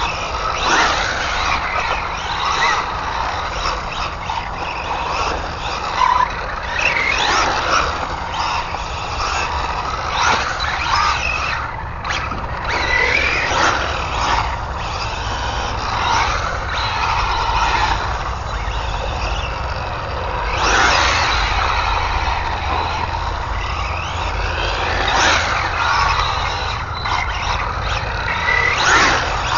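Arrma Infraction 3S RC car driven hard: its brushless electric motor whines up and down in pitch with the throttle over a steady rush of tyre noise.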